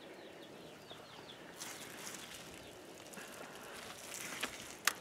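Faint outdoor ambience with a small bird giving a quick run of high chirps in the first second and a half, and one sharp click near the end.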